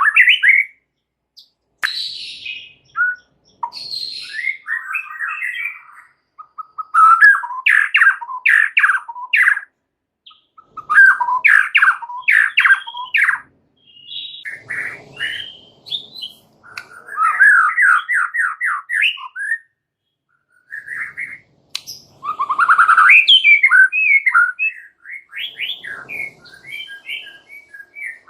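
White-rumped shama (murai batu) singing in a string of varied phrases, many built from rapid runs of repeated notes, with short pauses between phrases.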